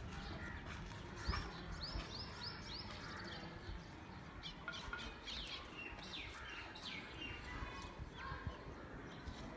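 Small birds chirping, in two runs of quick, short falling chirps over a low steady background noise.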